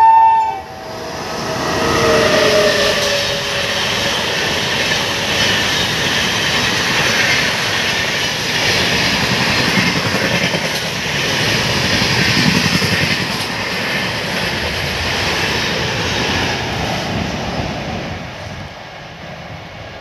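Electric locomotive giving a short, loud horn blast as it arrives at speed, then a tone that falls in pitch as it passes. The long rush and wheel clatter of its coaches going by follows and fades near the end.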